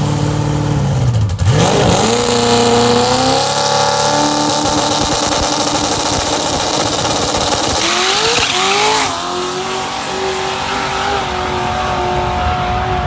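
Drag-racing truck engines launching at full throttle down the strip. The engine note climbs sharply just after the launch and holds high, then rises again partway through as the trucks pull away.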